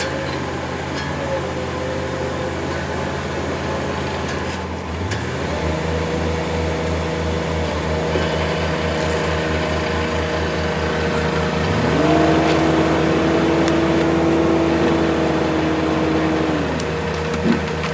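Diesel engine of heavy earthmoving machinery running with a steady pulsing drone, revving up about five seconds in and again around twelve seconds, where a higher whine joins it for several seconds before the revs drop back.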